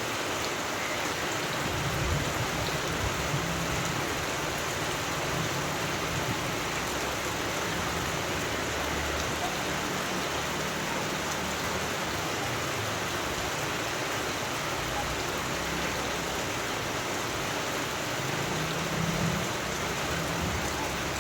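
Steady rain falling, an even hiss, with a low rumble swelling about two seconds in and again near the end.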